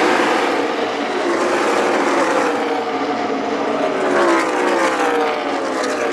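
A pack of NASCAR Cup Series stock cars with V8 engines passing at full speed, the engine note dropping in pitch as the cars go by, most clearly about four seconds in.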